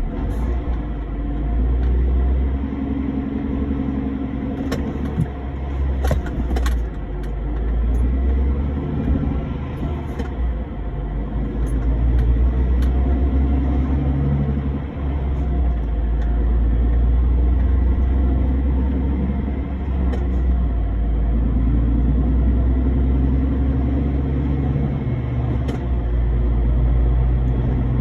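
Heavy truck driving: a steady low engine and road rumble, with a few faint clicks about five to seven seconds in.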